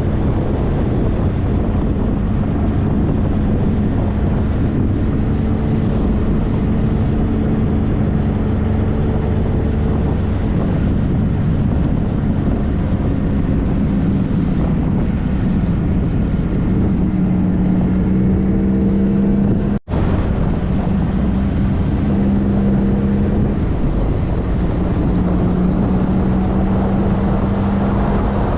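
2013 Triumph Trophy SE's 1215 cc inline-three engine running at a steady cruise, under heavy wind rush on the microphone. The engine note shifts slightly in pitch in the later part, and there is a brief dropout about two-thirds of the way through.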